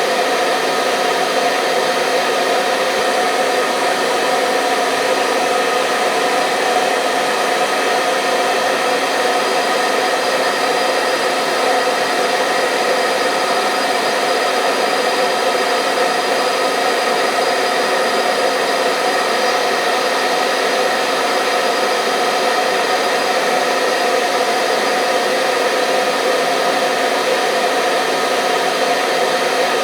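Hair dryer running continuously on one setting: an even, steady blowing hum with a fixed motor whine.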